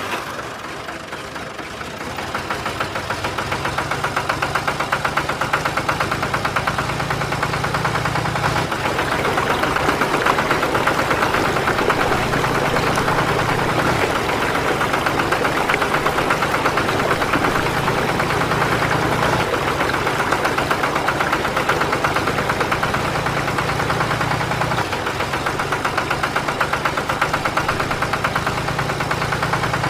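A small motor running steadily with a fast, even rattle, coming up to speed over the first few seconds.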